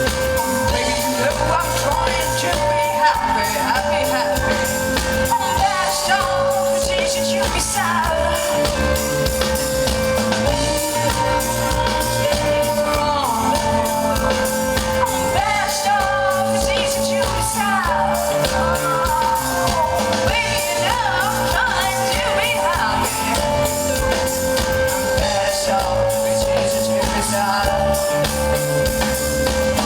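Electronic pop band playing live: a steady beat under a synth figure that keeps stepping between two notes, with a voice singing over it.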